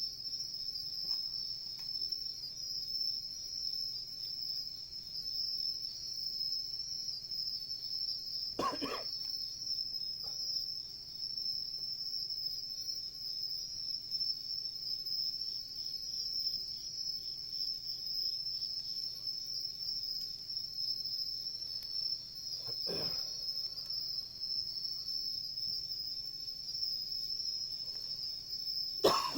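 Insects chirping in a steady, continuous high-pitched chorus, with a few brief short sounds about nine, twenty-three and twenty-nine seconds in.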